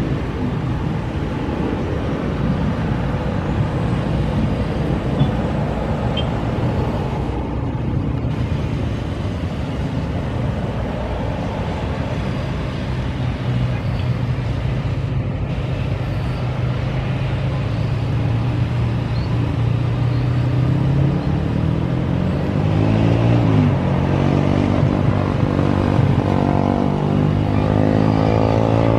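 Motor engines running steadily over a noisy rushing background. From about two-thirds of the way in, an engine's pitch sinks and climbs again several times.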